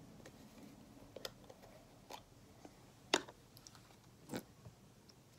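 Plastic glue bottle being squeezed to force out glue, its sides crackling and clicking in four short, separate snaps about a second apart.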